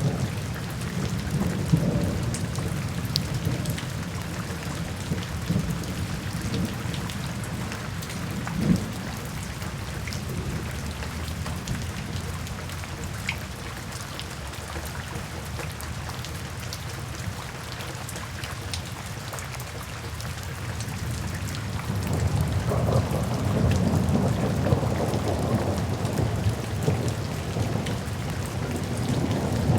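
Steady rainfall with low rolling thunder; the rumble fades in the middle and builds again about two-thirds of the way through.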